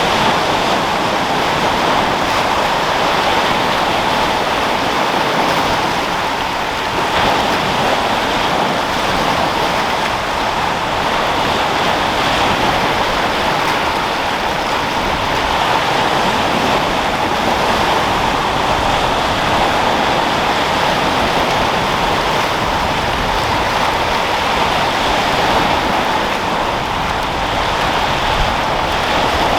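Sea waves rolling and breaking with wind, a steady rushing surf without sharp crashes.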